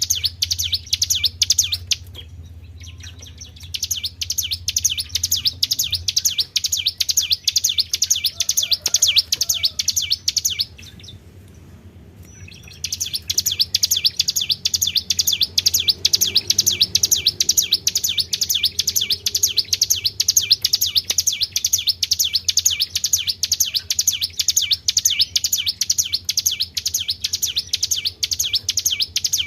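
Tribel songbird singing a fast run of high, evenly repeated chirps, many per second. The song stops twice, briefly about two seconds in and for about two seconds near the middle, over a faint steady low hum. This is a recorded song played as a lure (pancingan) to trigger caged birds to sing.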